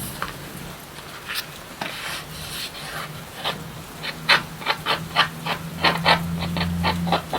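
Rubbing strokes on a surface, a few scattered at first, then quick and regular at about four a second through the second half, with a low steady hum joining near the end.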